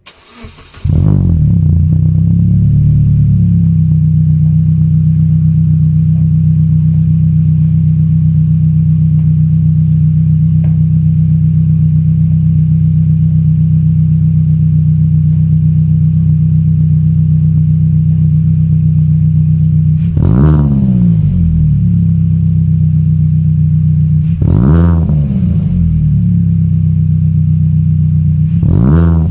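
Proton Saga FLX's exhaust, fitted with an HKS Hi-Power aftermarket muffler: the engine starts about a second in, settles to a steady idle, and is blipped three times near the end, the pitch rising and falling with each rev.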